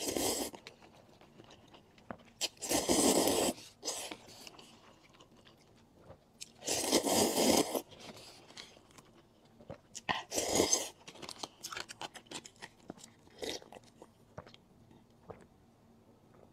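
Close-miked eating: steady soft chewing clicks, broken four times by louder bursts of biting and crunching that each last about a second.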